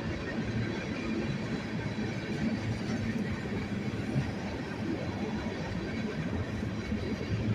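Freight train cars rolling past with a steady noise of steel wheels on the rails.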